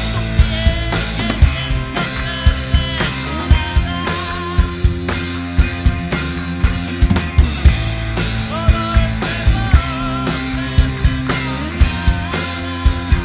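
A band playing an instrumental passage: a drum kit keeps a steady beat with bass drum and snare under sustained bass notes and a wavering lead melody.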